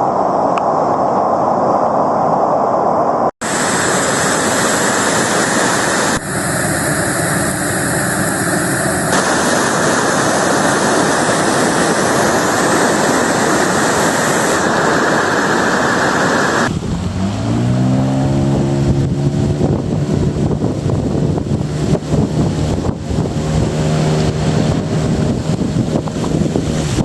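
Loud, steady rushing water of river rapids, cut between several takes. About two-thirds through it gives way to an engine that rises in pitch as it speeds up and then runs steadily.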